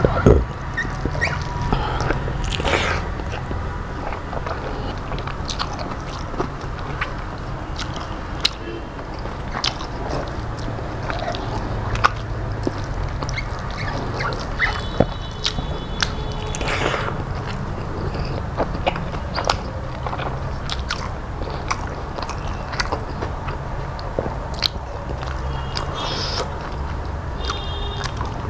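Close-up eating sounds: chewing and wet mouth clicks, with fingers mixing rice on a steel plate, over a steady low hum.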